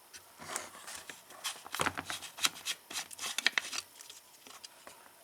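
A quick run of clicks, knocks and light rattles from hard plastic and metal parts being handled, dying away about four seconds in.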